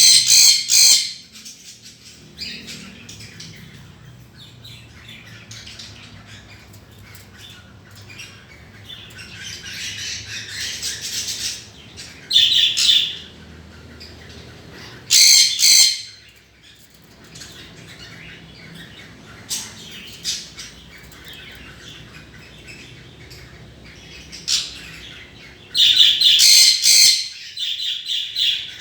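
Pet budgerigar and cockatiel calling: steady soft chattering and warbling, broken by four loud, high-pitched squawks, the longest near the end.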